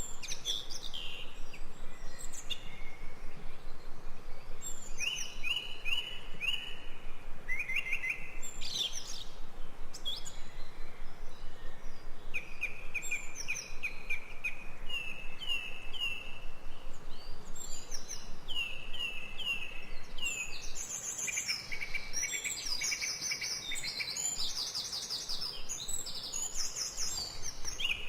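Several birds chirping and calling in short repeated phrases and quick sweeping notes, over a steady background hiss.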